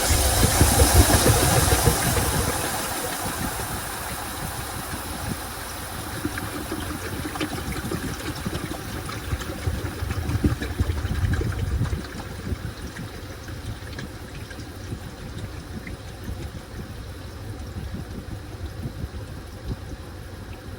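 Washing machine drum turning a load of towels in water. A loud rush of water fades over the first two seconds into steady churning and sloshing, which gets quieter at about twelve seconds.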